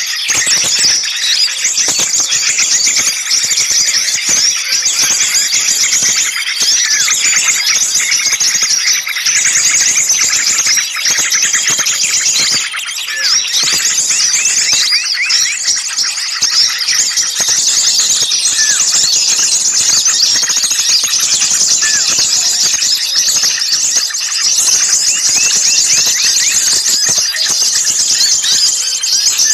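Many small songbirds calling at once in a dense, continuous racket of high chattering and scolding chirps. This is agitated, alarm-type calling of the kind used to lure small birds in.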